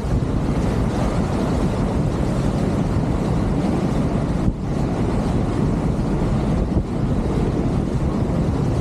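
Strong gusty wind buffeting the microphone over the rush of water along the hulls of a G-Force 1400 performance catamaran sailing fast; a steady, heavy rushing noise.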